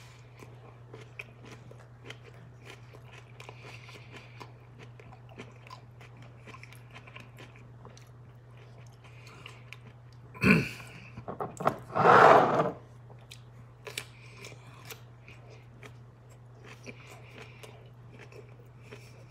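A person chewing a soft mango slice, with faint wet mouth clicks and smacks, and two short louder sounds about ten and twelve seconds in. A low steady hum runs underneath.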